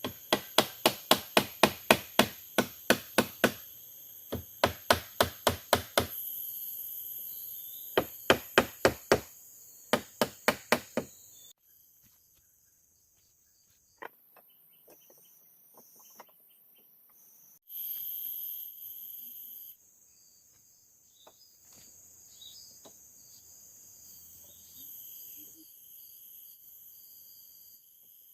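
Rapid sharp strikes of a tool on wood, about three a second, in four bursts during the first eleven seconds, then only faint scattered clicks. Insects chirr steadily and high-pitched throughout.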